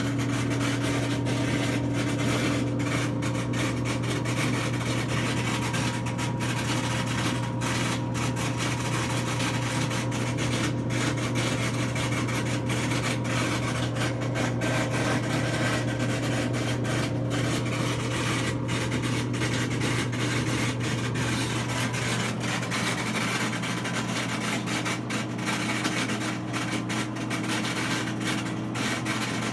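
Whirlpool front-load washer running in its spin and drain cycle, making the noise it is faulted for: a steady low hum with a rasping, rubbing noise over it and a higher tone that steps up a little about three-quarters of the way through.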